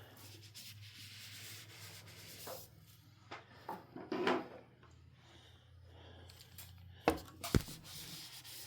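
Screwdriver scraping and rubbing against a ceiling fan's glass light cover and its metal fitting, with a few short scrapes and then two sharp clicks near the end.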